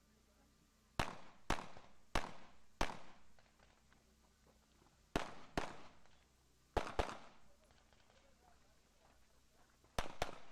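Pistol shots during an IPSC handgun stage, each with a short echoing tail: four quick shots starting about a second in, then pairs of shots separated by pauses of a second or more as the shooter moves between positions, the last pair near the end.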